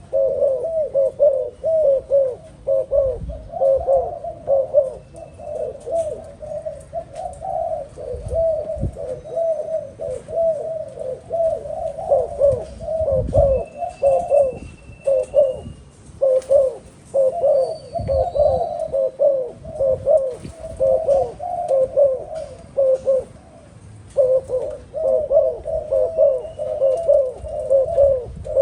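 Doves cooing over and over, several low coos running into one another, with brief lulls around the middle and again later. A few dull low thumps can be heard.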